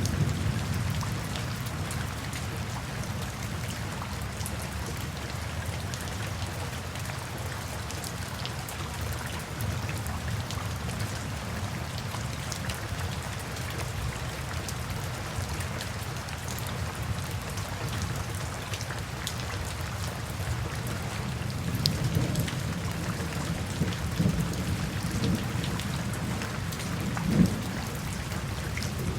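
Steady rain falling, a constant hiss and low rumble scattered with the ticks of individual drops. Near the end there are a few short, louder low thumps, the loudest just before the end.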